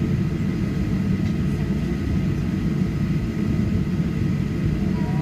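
Steady cabin rumble inside a Boeing 737-800 on the ground, its CFM56 engines running at idle, with two faint constant whines above the rumble.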